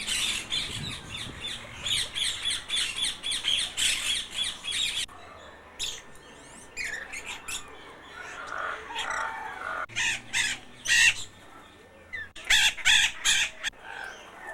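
Aviary birds calling: a fast run of short, high, repeated calls, then scattered chirps and squawks, with the sound changing abruptly twice where the footage is cut.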